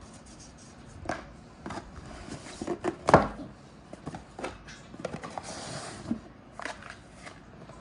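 Cardboard box packaging being handled and opened by hand: scattered light knocks and clicks, a louder knock about three seconds in, and a stretch of paper or plastic rustling a little past halfway.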